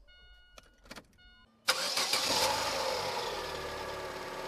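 A few faint clicks, then about two seconds in a Chevrolet E-TEC II 16-valve petrol engine is started cold. It catches at once and runs on at idle, its level slowly easing as it settles.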